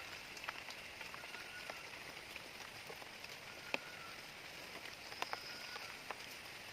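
Steady rain falling, with scattered sharp clicks of drops striking close by and faint short high chirps in the background.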